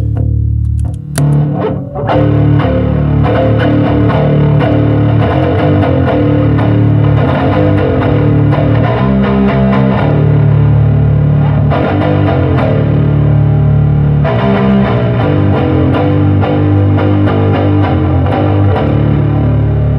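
Electric bass played through a Lateral Sounds Root distortion pedal with its girth control turned fully the opposite way: a heavily distorted bass riff of sustained, loud notes. After a short break about a second in, the playing runs on without pause.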